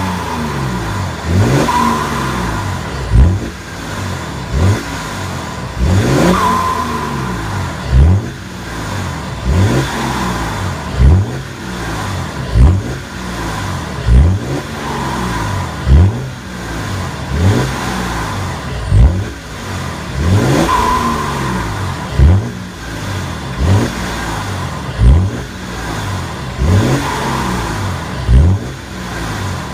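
BMW X6 E71 30d's 3.0-litre inline-six diesel through an aftermarket tuning exhaust, blipped over and over from idle: a quick rev about every second and a half, each dropping straight back.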